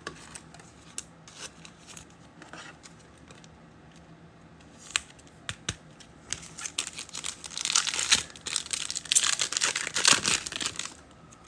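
A foil trading-card pack wrapper handled and torn open: a few light clicks and rustles, then a dense run of crinkling and tearing from about six seconds in.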